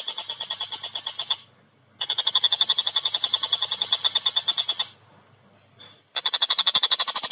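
Tengkek buto kingfisher giving its fast, rattling cackle, about eight notes a second, in three bursts with short pauses between them.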